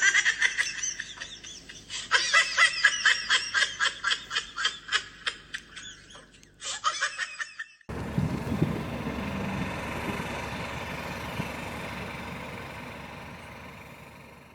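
Rapid, high-pitched laughter in quick pulses that fades over several seconds. It cuts off abruptly, and a steady rushing noise follows and slowly fades out.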